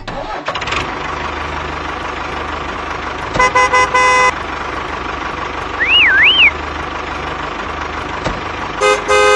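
Truck engine running steadily, with a burst of repeated horn honks about three seconds in and another near the end. Between them comes a short whistle that warbles up and down twice.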